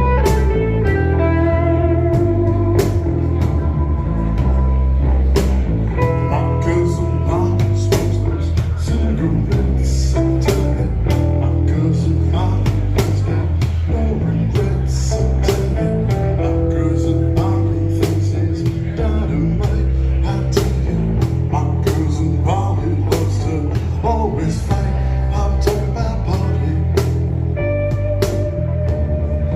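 Blues-rock band playing: a lead guitar line of held, bending notes over bass and a steady drum beat.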